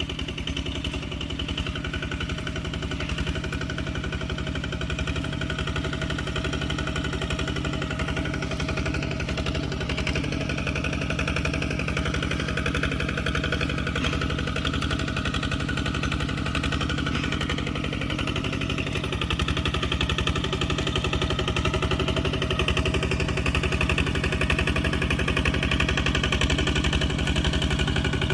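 Tractor engine running steadily, a rapid even train of firing pulses, getting slightly louder about two-thirds of the way through.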